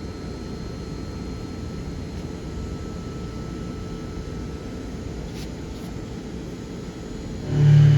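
DMG MORI M1 CNC milling machine running with a steady low rumble and faint high whines. Near the end a much louder steady hum with several pitched tones sets in.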